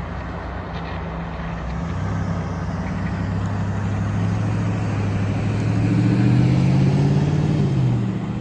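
Diesel engine of a Mack Granite roll-off truck pulling up through the gears: the engine note climbs in pitch and grows louder, then falls away near the end.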